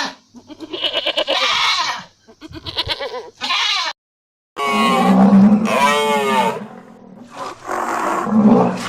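Animal calls in several separate bouts, cut apart, with a brief silence about four seconds in; one call about six seconds in rises and falls in pitch.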